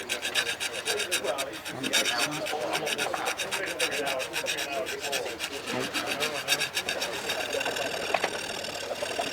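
Needle file rasping on the edge of a Bristol Olympus 301 compressor blade in quick, even, repeated strokes, dressing out nicks left by foreign object damage.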